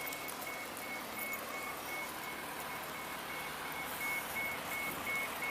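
A high electronic beep repeating evenly, about three times a second, over a steady background hum of people and surroundings.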